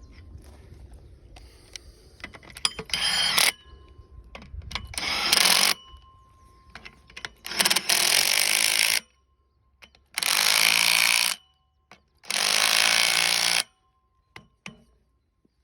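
A power tool running in five short bursts, each starting and stopping abruptly, the later ones longer.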